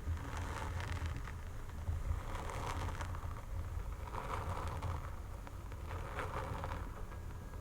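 Fingernails scratching over hair and skin in repeated strokes, with a low rumble of close contact noise underneath.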